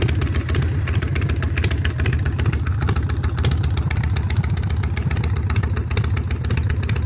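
2005 West Coast Choppers Jesse James chopper's V-twin engine idling steadily just after a cold start.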